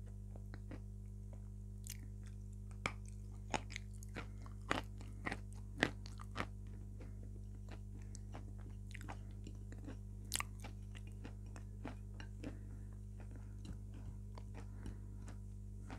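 Close-miked eating sounds: chewing and lip smacks as a person eats a soft dessert, heard as scattered small clicks that are strongest between about three and six and a half seconds in, over a steady low hum.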